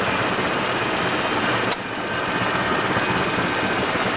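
Steady cockpit noise of a Boeing 737-200 freighter with its engines running. A sharp click comes nearly two seconds in, and the noise dips briefly before it comes back.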